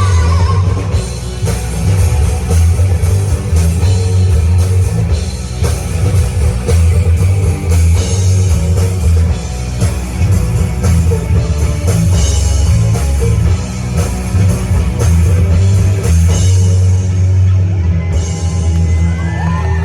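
Live rock band playing an instrumental passage, with guitar and drum kit over a heavy bass line and no vocals.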